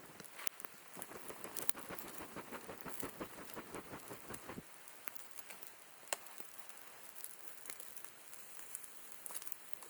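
Slices of pork loin sizzling on a grill over a wood fire pit, a dense pattering crackle of spitting fat. About halfway through the sizzle thins out, leaving sparser crackles and one sharp pop.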